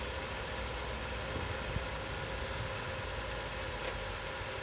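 Nissan Qashqai's 1.6 16v petrol engine idling steadily, a low even rumble.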